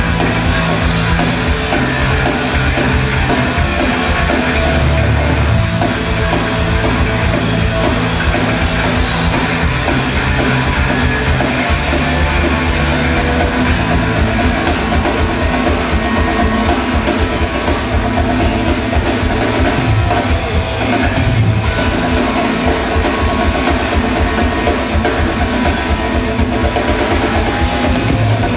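Rock band playing live: drum kit, guitar and bass in a loud, steady instrumental passage with no singing.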